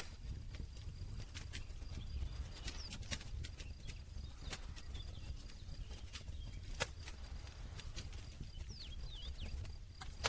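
Wood campfire crackling, with sharp pops at irregular intervals over a low steady rumble; the loudest pop comes about two-thirds of the way through.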